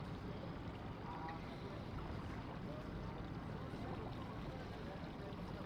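Steady low rumble of boat engines running at low speed, with faint far-off voices.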